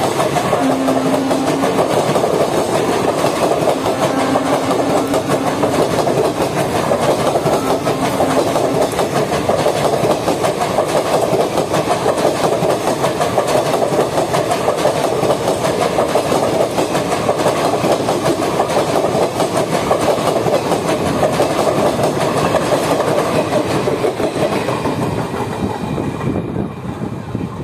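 Express train's passenger coaches passing close by at speed, wheels clattering over the rail joints in a steady rush. The noise fades in the last few seconds as the train draws away.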